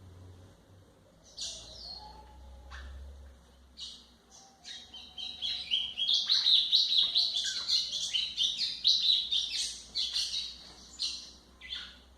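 Golinha (white-throated seedeater) singing: a couple of short high calls, then a long, fast twittering song phrase from about five seconds in.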